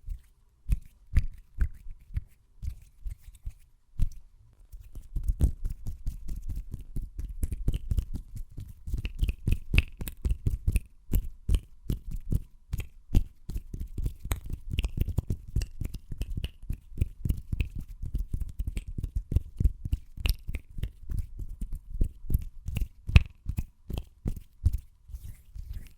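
Fast hand sounds close to the microphone: quick, crisp taps and rubs of the hands, several strokes a second. They start sparse, pause briefly about four seconds in, then run fast and dense.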